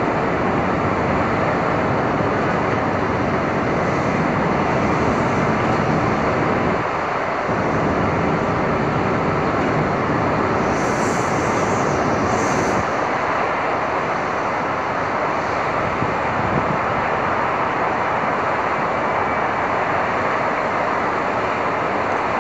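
Stormy-day city street ambience: a steady, dense rush of traffic and weather noise. Two short hissing bursts come about eleven and twelve and a half seconds in.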